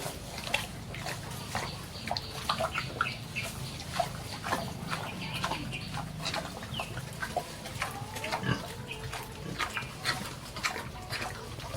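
Pigs grunting and making short calls in a pen, among frequent short clicks and knocks.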